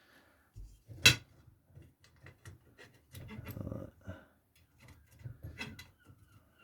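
Handling and fitting of bench dog fence hardware on a workbench top: a sharp knock about a second in, then light clicks, taps and a brief rustle of parts being moved.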